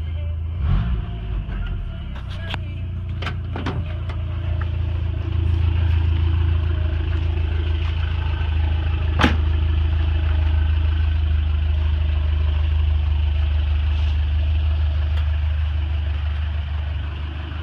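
Toyota 22R-TE turbocharged four-cylinder engine running steadily with a low drone. A few clicks and knocks in the first few seconds, and one sharp click about nine seconds in.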